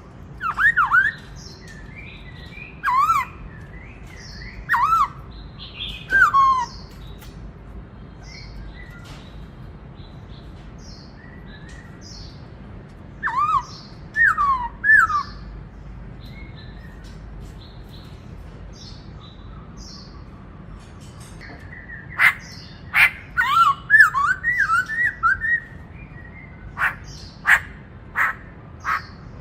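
Black-throated laughingthrush singing: loud whistled phrases that swoop up and down, given in bouts with a pause of several seconds about halfway through. Near the end the bird gives a run of short, sharp calls.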